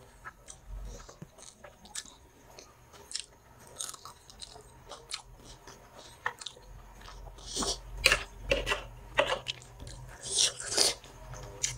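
Close-up chewing of food, with wet mouth clicks and crunches, growing denser and louder in the second half.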